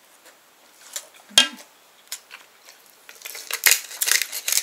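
A spoon clinking and scraping against a dish while eating fried rice: a few single clicks, then a quick run of scrapes and clicks near the end, with a brief hum from the eater about one and a half seconds in.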